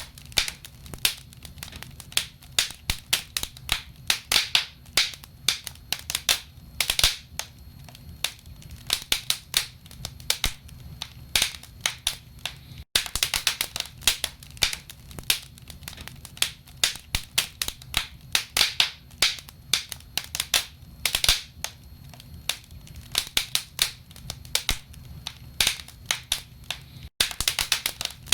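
Wood fire crackling in a fireplace: burning logs give off many sharp, irregular pops and snaps over a low, steady rumble. The sound cuts out for an instant twice, about 13 and 27 seconds in.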